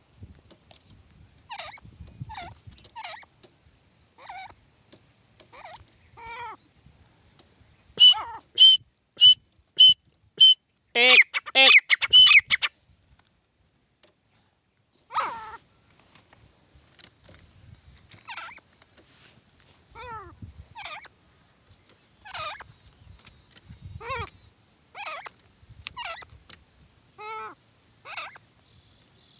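Titar partridges calling: short, downward-sweeping calls repeated at irregular gaps. About eight seconds in comes a run of five loud, evenly spaced shrill calls, followed by a fast, loud burst of calls. A faint, steady, high-pitched hum runs behind.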